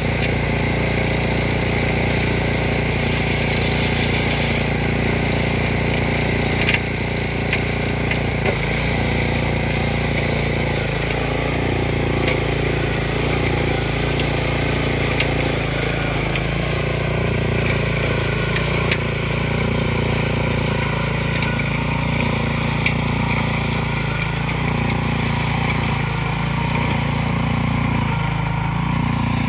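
Harbor Freight Predator single-cylinder engine running steadily on a Troy-Bilt Pony rototiller, with a few sharp clicks now and then.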